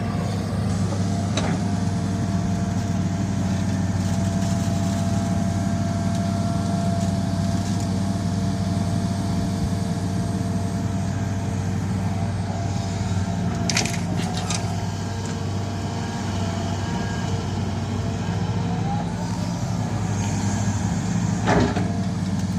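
Heavy earth-moving machine's diesel engine running steadily, with a few sharp cracks and knocks: one about a second and a half in, a cluster in the middle, and one near the end.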